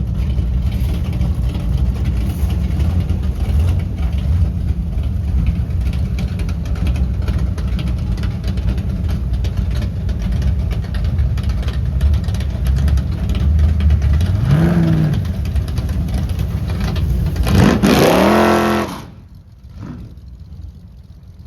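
Car engine running close by with a steady low rumble, revving briefly about fourteen seconds in, then accelerating hard with a rising pitch near the end before the sound drops away sharply.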